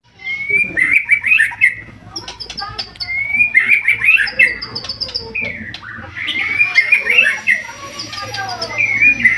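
White-rumped shama (murai batu) in full, loud song: bursts of quick, varied whistled notes that come back roughly every three seconds, with high sharp notes between them.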